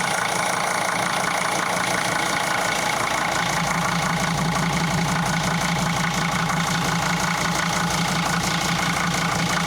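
A 2001 Mercedes Sprinter's five-cylinder turbodiesel idling steadily, running smoothly just after a coolant refill while the cooling system bleeds itself.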